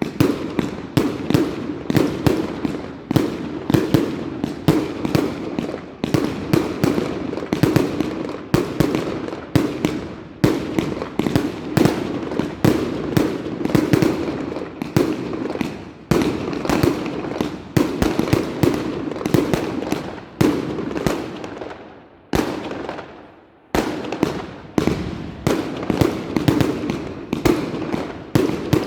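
Fireworks going off in a dense, rapid run of bangs, several a second. They die away briefly about 22 seconds in, then start again abruptly.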